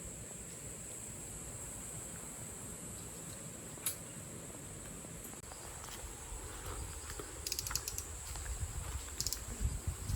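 Steady high-pitched insect chirring, like crickets, with a single sharp click about four seconds in and short runs of quick clicks near the end.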